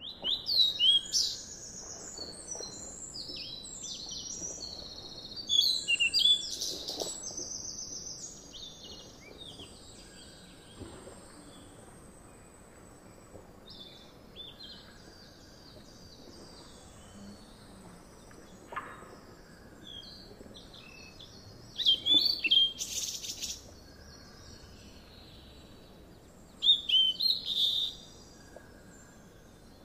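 Songbirds chirping in four loud bunches of quick high notes, with fainter chirps between them over a faint steady background hiss.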